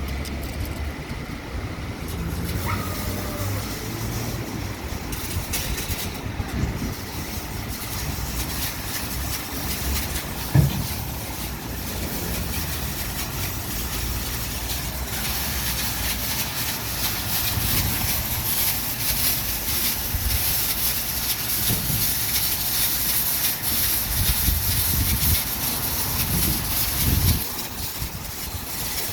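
Washtec SoftCare Pro rollover car wash running over a car, with water spray hissing steadily and growing stronger about halfway through over a low machine rumble. A single short thump about a third of the way in.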